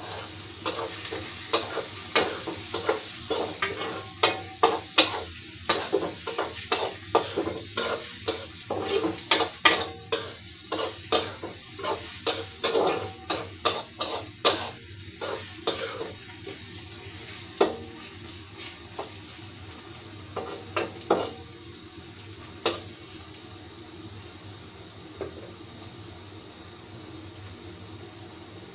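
Spatula stirring in a frying pan, scraping and knocking against the pan in a quick irregular run of clicks for about the first fifteen seconds, then only a few knocks. A steady sizzle of food frying in oil runs underneath.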